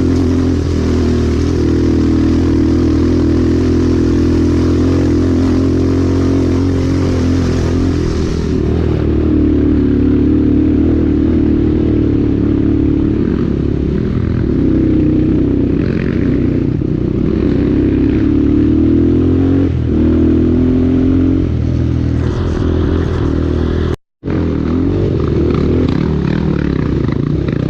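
Enduro dirt bike engine running under way, its pitch rising and falling with the throttle. The sound cuts out for a moment near the end.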